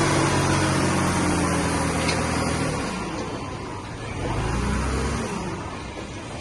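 Diesel engine of heavy earthmoving equipment running with a steady note that fades away about three seconds in, followed by a brief low rumble near the end.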